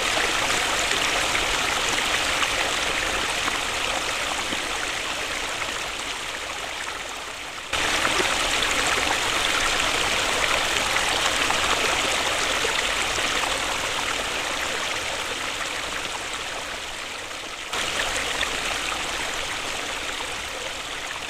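Waterfall: a steady rush of falling water. Twice the sound slowly fades and then jumps back to full strength all at once, about 8 and 18 seconds in.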